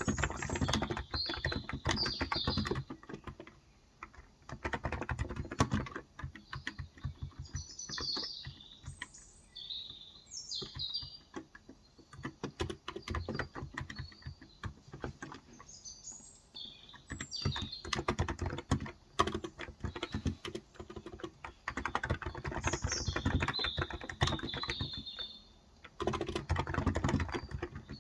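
Typing on a Cox Endeavor tenkeyless keyboard with 35 g electrostatic capacitive (contactless) switches: fast runs of keystrokes in bursts with short pauses. Small birds chirp in the background several times.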